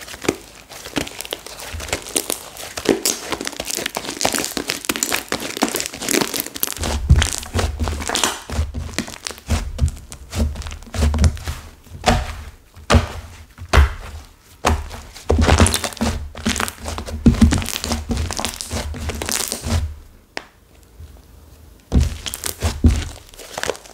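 Hands squeezing and pressing a floral slime with hardened clay mixed in, giving dense crackling and crunching. Dull thumps come in from about a third of the way through as it is pressed down, with a short lull near the end.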